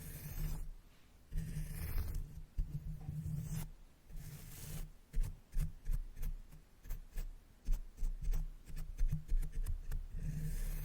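Makeup brushes brushed over the microphone in soft swishes, then a run of quick, irregular taps from about five seconds in. The brushing sound returns near the end.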